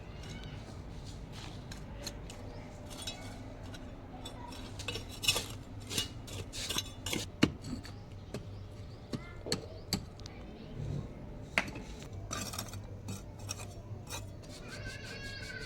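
Irregular sharp clinks and knocks of hard objects being handled, a few of them louder, over a steady low hum.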